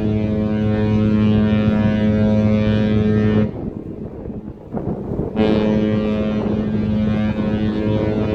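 Mein Schiff Relax cruise ship's horn sounding long, low blasts as a farewell salute on leaving port: one blast cuts off about three and a half seconds in, and another starts about two seconds later.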